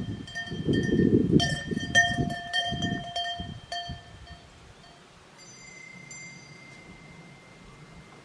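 Bells worn by grazing cattle ringing irregularly, with several clangs in the first four seconds over low rustling and knocking. The ringing then fades, leaving a faint high steady tone.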